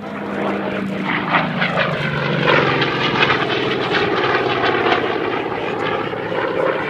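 Goodyear FG-1D Corsair's Pratt & Whitney R-2800 radial engine flying past. Its note drops in pitch about two seconds in as it goes by.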